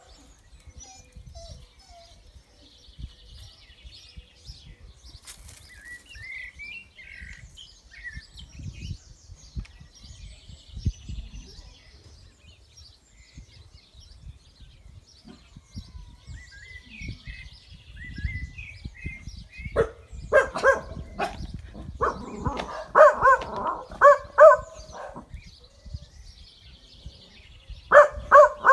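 Small birds chirping, then a dog barking in quick runs of short barks about two-thirds of the way through and again near the end.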